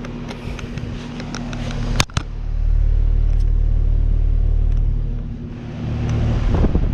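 2021 5-ton Carrier Comfort heat pump running in cool mode, its compressor and condenser fan giving a steady hum. A sharp click comes about two seconds in, followed by a heavy low rumble that lasts a few seconds.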